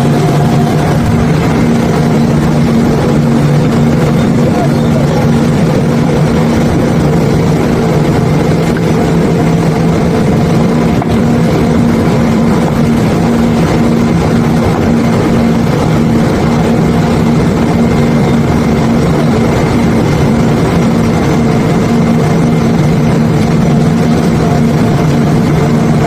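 Barge-unloading machinery's diesel engine running steadily: a constant low drone of even pitch, with a steady rushing noise underneath.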